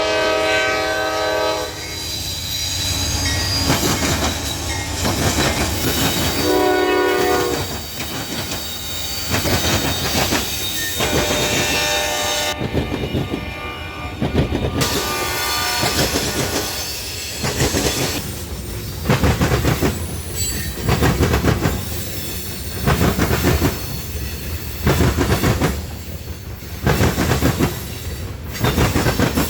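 Train passing close by. A locomotive horn sounds for the first second or so and again briefly about seven seconds in. Then the cars rumble past with a rhythmic clickety-clack of wheels over rail joints, about a beat a second in the second half.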